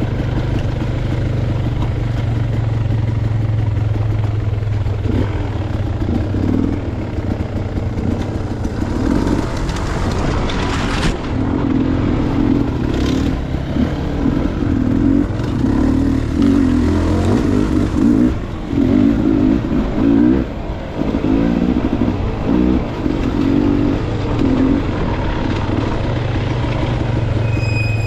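Dirt bike engine running on a trail ride. It holds steady at first, then revs up and down with on-and-off throttle through the middle stretch before settling again near the end.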